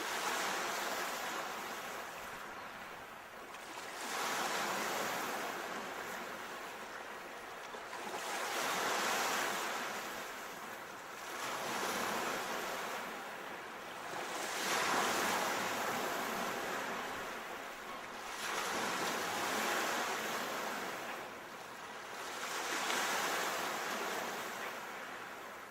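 Sea waves breaking and washing up the shore in a slow, even rhythm, swelling and fading about every three to four seconds.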